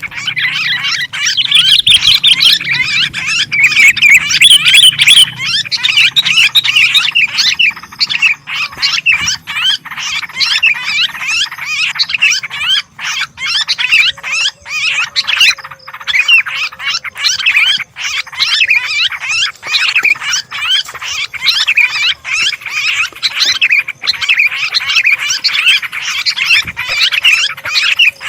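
A dense, unbroken chorus of noisy chattering calls from sooty-headed bulbuls and yellow-vented bulbuls, a bird-lure recording.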